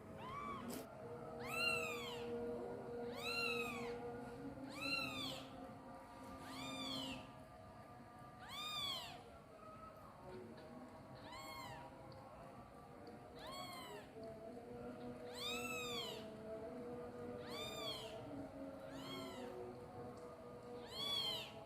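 A kitten meowing over and over, about a dozen high meows roughly two seconds apart, each rising and then falling in pitch: a kitten crying for its mother.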